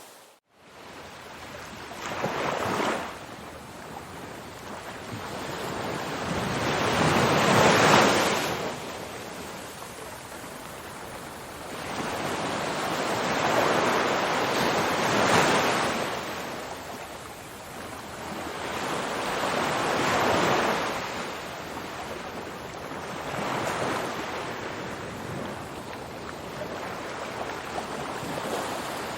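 Ocean surf, waves washing in as slow swells that rise and fall every five to seven seconds, the loudest about eight seconds in. The sound drops out briefly just after the start.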